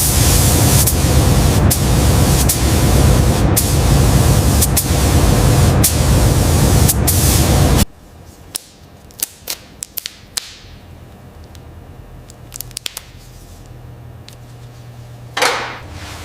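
A loud, steady spray-like hiss over a low hum cuts off abruptly about eight seconds in. Quiet follows, broken by several sharp clicks and a short whoosh near the end.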